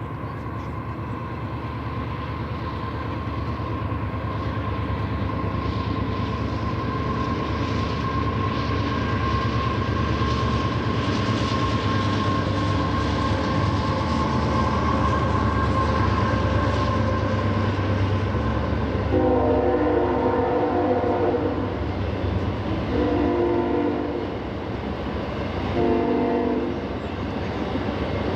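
CSX freight train's diesel locomotives approaching, their rumble and a steady whine growing louder. Near the end the locomotive horn sounds three blasts: a long one, a shorter one, and a brief last one.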